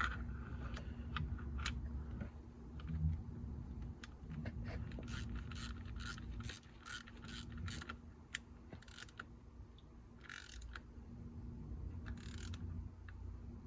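Hand socket ratchet clicking as thermostat-housing bolts are run down and snugged: a run of sharp clicks about three a second in the middle, then two short raspy ratchet strokes near the end.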